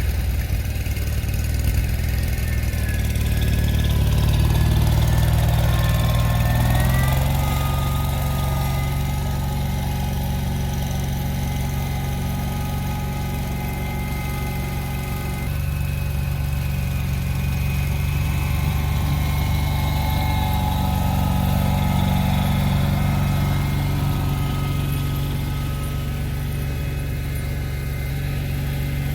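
A vehicle's engine running steadily under changing load, its note rising a few seconds in and shifting again about halfway through, with a whine above it that climbs and falls.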